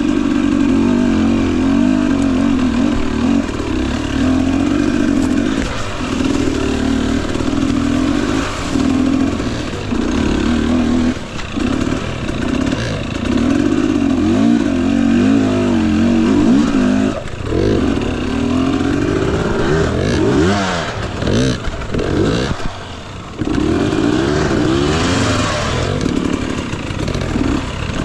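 Husqvarna TE250i two-stroke dirt bike engine revving up and down under constant throttle changes, its pitch rising and falling with quick blips, and dropping briefly about 22 seconds in.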